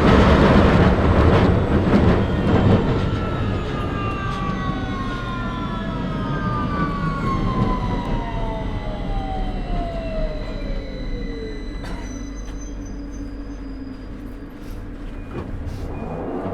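Victoria line 2009 stock Underground train slowing down. Loud wheel-and-rail rumble gives way to the traction motors' whine, which falls steadily in pitch over about eight seconds and fades into a low rumble as the train draws into a station.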